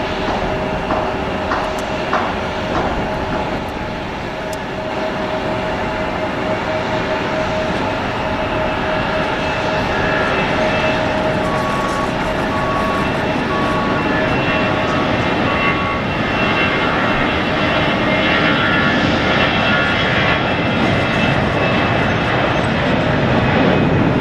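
Airbus A320-214's CFM56 turbofan engines on a takeoff, a steady jet noise with a high whine, growing slowly louder. A faint beep repeats about once a second for a few seconds midway.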